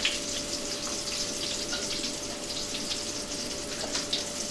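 Pieces of chōjifu (wheat gluten) frying in a shallow layer of rice oil in a pan: a steady sizzle with light crackling.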